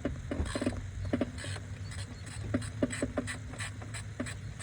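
Hand tools working on engine bolts: an irregular run of sharp metallic clicks and clinks, some with a short ring, over a steady low hum.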